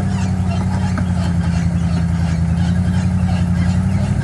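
Off-road rock-crawling rig's engine running steadily at low revs, a constant low hum.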